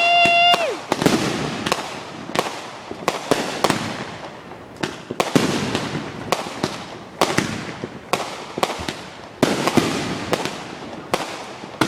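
Aerial fireworks going off in quick, irregular succession: many sharp bangs with crackling between them.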